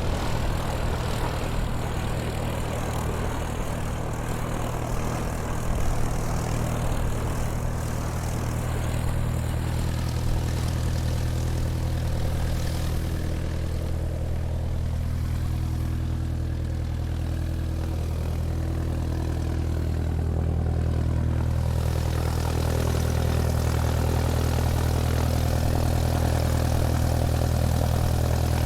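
Light propeller aircraft's engine running steadily in flight, a continuous low drone that gets slightly louder in the last few seconds.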